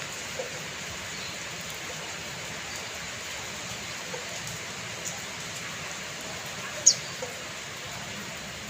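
Steady rain hiss with scattered small drips. About seven seconds in there is one brief, sharp, high-pitched tick.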